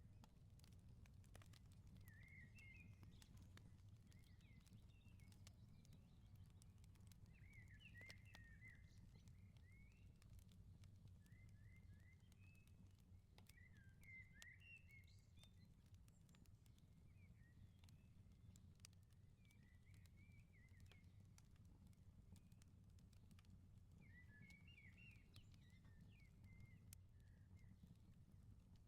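Faint crackling of a wood fire in a firepit, scattered sharp pops, with small birds chirping in short phrases every few seconds over a low steady rumble.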